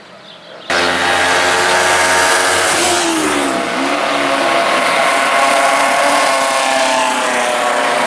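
Racing motorcycle engine at high revs, cutting in suddenly about a second in; the pitch dips around three seconds in, then climbs again as it pulls back up.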